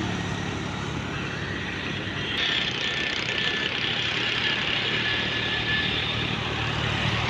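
Road traffic going by: vehicle engine hum and tyre noise, growing a little louder about two and a half seconds in.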